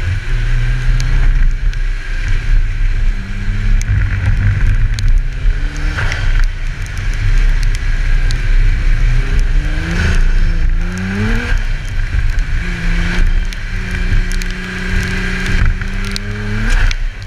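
Nissan GT-R's twin-turbo V6 pulling through a wet autocross run, its pitch climbing in two long pulls that each drop off sharply. Under it is a steady hiss of tyres on standing water and wind rumbling on a camera mounted outside the car.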